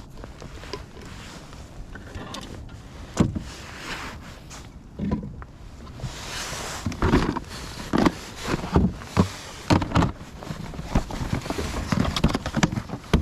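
Irregular knocks, clunks and rattles on a Hobie kayak over a low rumble, sparse at first and growing busier and louder from about halfway through.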